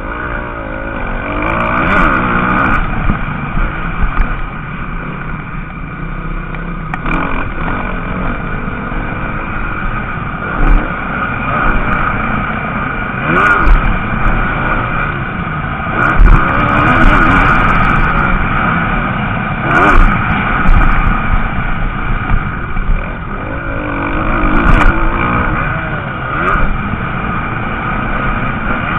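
Several MX2 motocross bikes racing, their engines revving up and falling back again and again, with louder surges as bikes pass close by.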